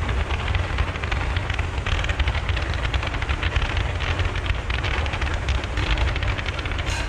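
Fireworks crackling continuously, a dense run of many small pops with no single big burst, over a steady low rumble of wind on the microphone.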